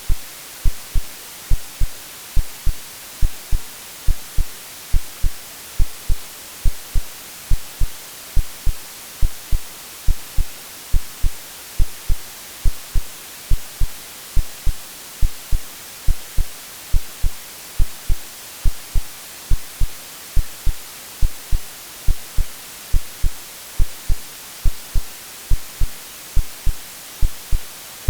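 AI-generated heartbeat sound, regular low thumps repeating steadily, laid over continuous white noise as a womb-like soothing sound for babies.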